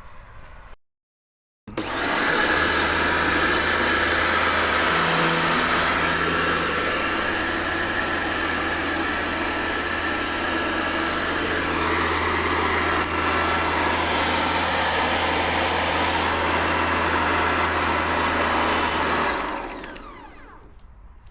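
Kärcher K2 electric pressure washer running steadily, a constant motor hum under a loud even rush of noise. It starts abruptly about two seconds in and fades out near the end.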